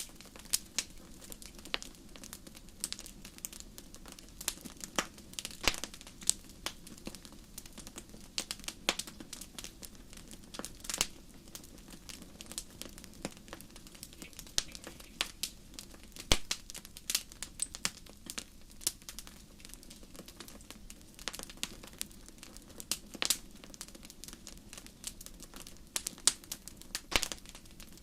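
Campfire crackling: irregular sharp pops and snaps, sometimes several in quick succession, over a steady low rustle of burning.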